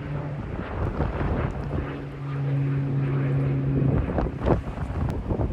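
Wind buffeting the microphone, with a steady low hum for about two seconds midway and a few sharp crackles near the end.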